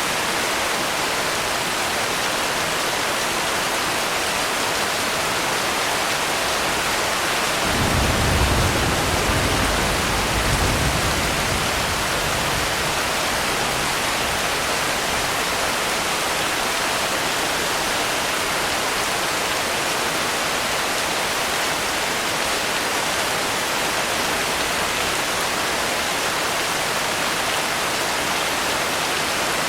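Steady rain sounds, an even hiss throughout. A low rumble swells and fades away between about eight and twelve seconds in.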